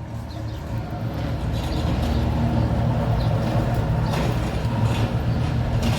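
A motor vehicle's engine running, a steady low rumble that grows louder over the first two seconds and then holds.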